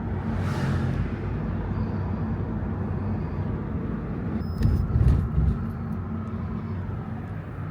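Steady low rumble of road vehicle noise, with a few heavier thumps about five seconds in.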